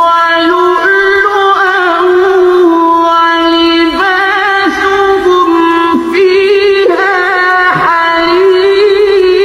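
A single voice reciting the Quran in a melodic chanted style, holding long notes with wavering ornaments and a few brief dips in pitch.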